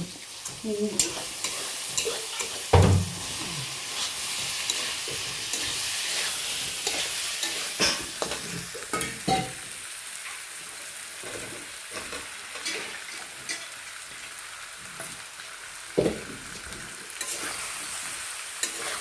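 Chicken frying and sizzling in hot oil in a pan, stirred with a spatula that scrapes and knocks against the pan now and then, loudest about three seconds in and again near the end.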